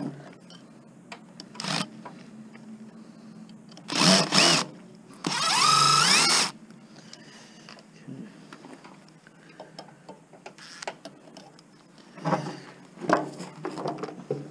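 Power drill run in two bursts: a short one about four seconds in, then a longer one that rises in pitch as the motor spins up and holds steady. It is working on the fasteners of a large transformer in a 35 amp power supply. Scattered knocks and metal clatter follow near the end.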